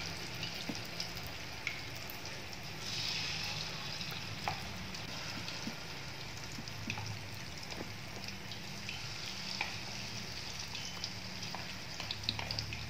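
Battered banana pieces frying in hot oil in a wok: a steady sizzle that swells briefly about three seconds in, with scattered light clicks.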